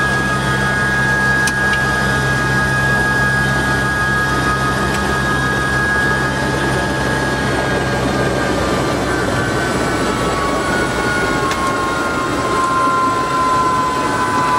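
Helicopter turbine and rotor running. The high turbine whine slowly falls in pitch in the second half, and the low rotor drone drops away about two-thirds of the way through.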